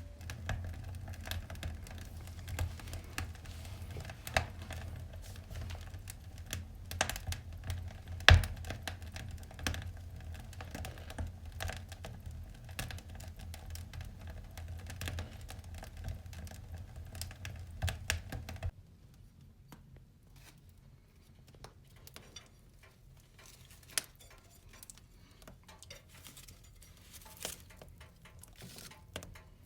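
Wood fire crackling, with irregular pops and snaps; the loudest pop comes about eight seconds in. After about eighteen seconds a low background noise drops away and the crackles become sparser and quieter.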